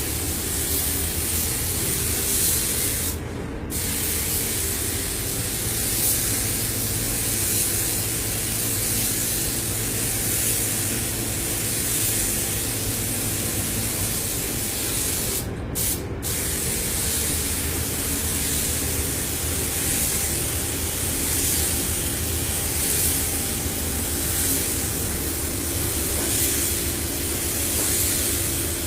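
Paint spray gun hissing steadily over a low hum. The hiss stops briefly once a few seconds in and twice in quick succession about halfway through.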